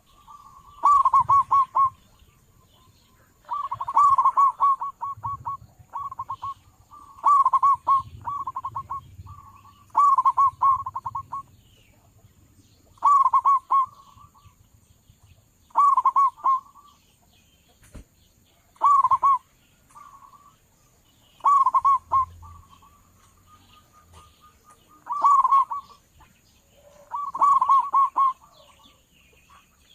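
Zebra dove cooing: about a dozen loud phrases, each a quick run of stuttering notes, repeated every two to three seconds.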